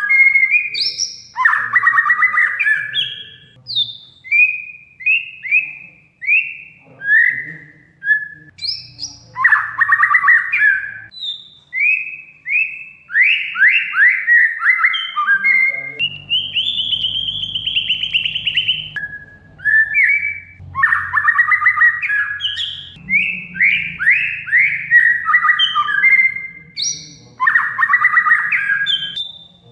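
Oriental magpie-robin (kacer) singing: a fast string of short, falling whistled notes broken several times by harsh, buzzy chattering bursts, with one longer held note about halfway through.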